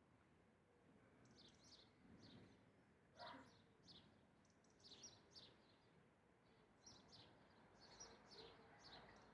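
Birds chirping faintly: short, high chirps falling in pitch, in quick runs, with one lower, louder call about three seconds in.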